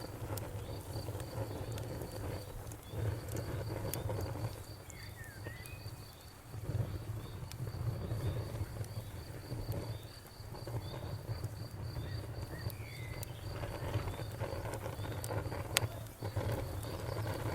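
Crickets chirping in a steady rapid train, with a few short pauses, over a crackling bonfire that gives off scattered sharp pops and a low rumble.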